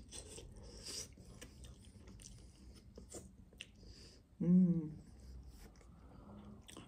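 Chewing and tearing meat from a roast chicken drumstick, with small wet mouth clicks and soft rubbing sounds. About four and a half seconds in there is a short hummed voice sound.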